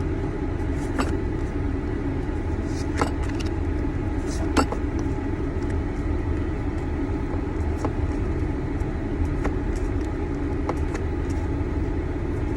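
Steady low rumble inside a car with its engine running, heard from the cabin. Over it come a few short, light clicks and crinkles as trading cards and a foil booster pack are handled.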